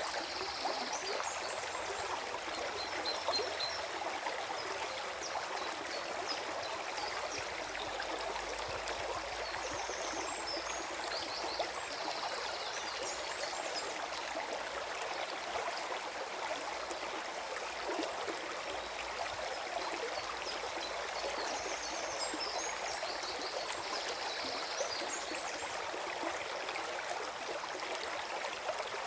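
Forest stream flowing with a steady gurgling. Now and then there are faint, high, rapid chirps.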